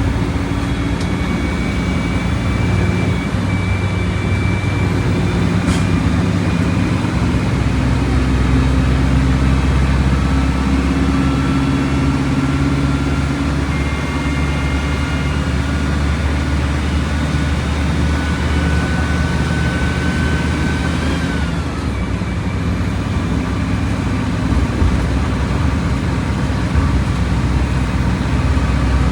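Volkswagen Volksbus 17.230 Euro 6 bus engine running steadily as the bus drives, its pitch shifting with speed. A thin whine rises slowly in pitch and drops away about two-thirds of the way through.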